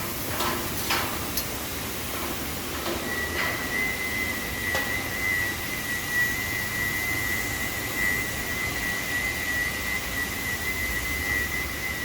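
A steady high-pitched whistling tone starts about three seconds in and holds, over a steady background hiss, with a few light clicks in the first seconds.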